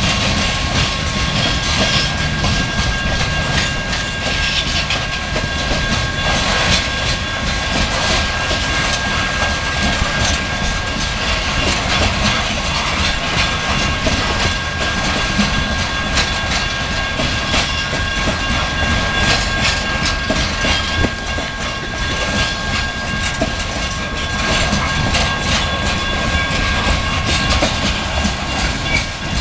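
Loaded coal hopper cars of a freight train rolling steadily past: a continuous rumble with the clatter of steel wheels over rail joints.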